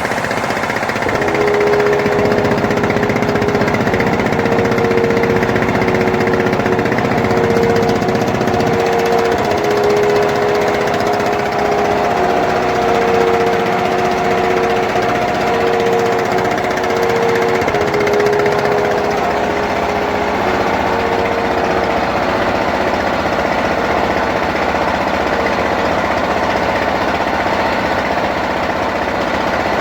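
An engine running steadily with a droning hum that shifts slightly up and down in pitch for the first twenty seconds or so, then holds even.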